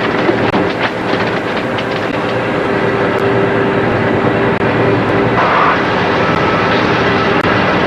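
A boat running under way offshore: steady engine drone mixed with the wash of the hull through the water, with a hum that fades out partway through.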